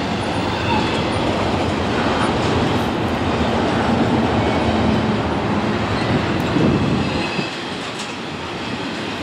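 Double-stack intermodal container train's cars rolling past: a steady rumble of steel wheels on rail, with scattered clicks as the wheels pass over rail joints. The sound eases slightly after about seven seconds.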